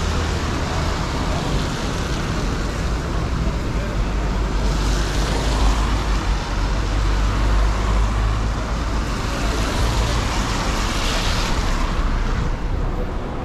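City traffic on a wet street: a steady low engine rumble, with tyre hiss swelling twice as vehicles pass.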